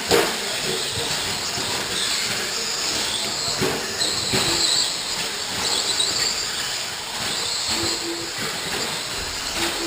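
Electric 1/10-scale RC short course trucks racing on a dirt track: a high, hissy whine of several motors, with a few sharp knocks from trucks landing or hitting each other near the start and around the middle.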